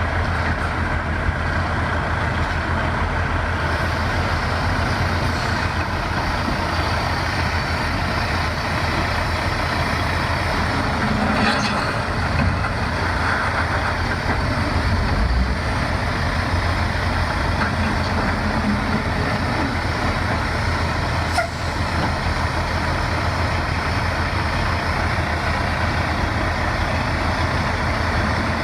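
Heavy diesel engine running steadily with a low drone, under a constant wash of noise; a single short click near the end.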